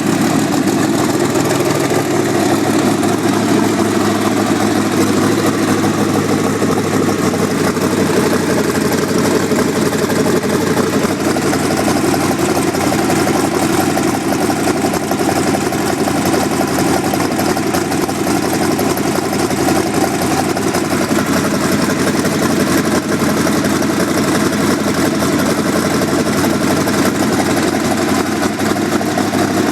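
Twin-turbocharged V8 engine idling steadily during its second fire-up.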